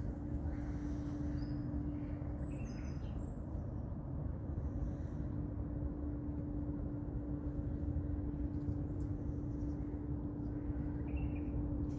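Small birds give a few short chirps: near the start, around three seconds in, and near the end. Under them runs a steady low rumble with a constant hum.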